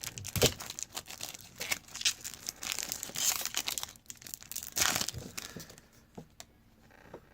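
A Topps trading-card pack wrapper crinkling and tearing as it is opened by hand. The rustling dies down about six seconds in, leaving a few light clicks.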